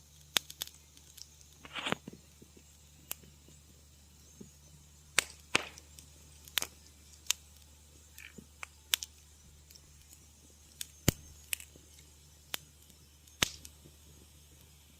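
Wood fire crackling in a fireplace: irregular sharp pops and snaps, a dozen or more scattered through, over a faint steady low hum.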